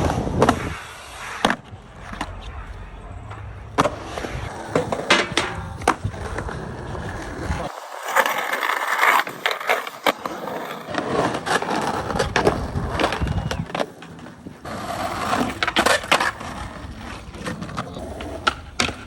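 Skateboards rolling, with many sharp clacks and smacks of boards popping, hitting and landing, in several short cut-together takes.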